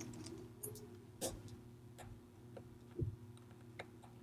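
A few small, sharp clicks of metal watchmaker's tools and tiny parts against a Seiko 6309 automatic movement as it is unscrewed and taken apart. They come irregularly, the clearest about a second in and about three seconds in, over a steady low hum.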